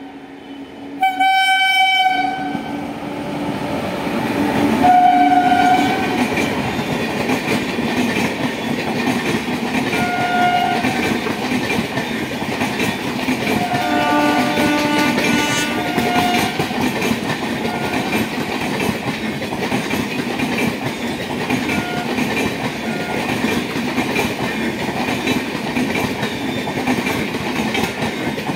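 A passenger train's locomotive sounds its horn in several blasts during the first half, some short and some held, while the train approaches. Then the long train's coaches pass close by with a steady rumble of wheels on rail and clattering over the rail joints.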